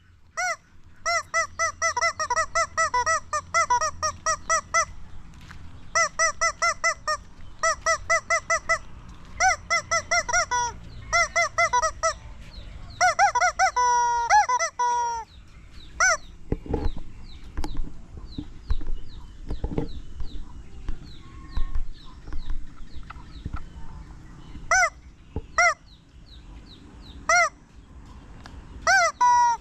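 Rubber chicken toy squeezed again and again, giving short, high-pitched, honking squeals several times a second in runs of a few seconds. After about halfway only a few single squeals are left, spaced a second or more apart.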